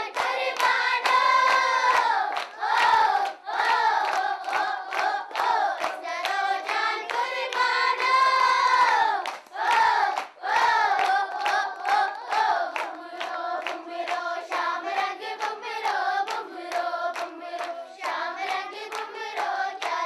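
A group of voices, children by the sound of it, singing together in long held notes while hands clap along in a steady beat of about two to three claps a second.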